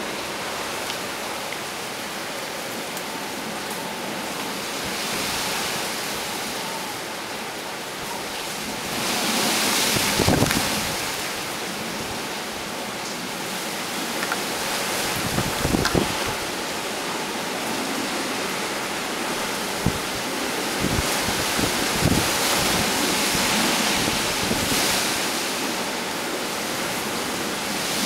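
Typhoon wind gusting with driving rain, a steady rushing noise that swells in several gusts. The strongest gusts buffet the microphone with low thumps, about ten and sixteen seconds in and again around twenty-two seconds.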